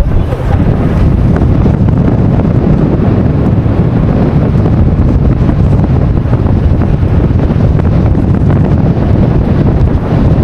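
Loud wind buffeting the microphone of a moving car, a steady rumbling rush that starts abruptly.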